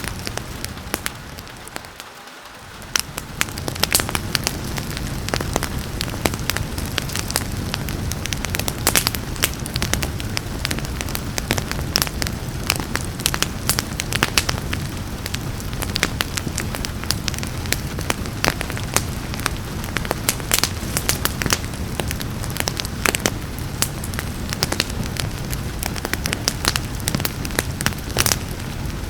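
Wood fire crackling, with many sharp pops and snaps over a steady hiss, and rain mixed in underneath. The sound briefly fades down and back up about two seconds in.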